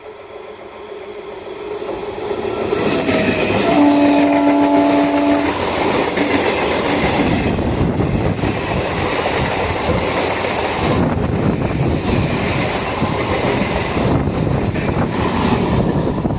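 A train approaching and passing at speed, growing louder over the first few seconds. About four seconds in it sounds its horn once for about a second and a half. The loud clatter of wheels over the rails follows and runs on.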